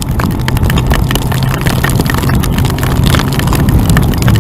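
Yamaha FJR1300 motorcycle riding at speed, its inline-four engine running steadily under a rush of noise, while hailstones strike the bike and rider in many quick, irregular clicks and taps.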